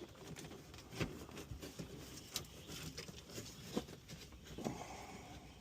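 Scattered light clicks and knocks of hand tools and parts being handled while working under a car's dashboard, with sharper taps about a second, two and a half, and just under four seconds in.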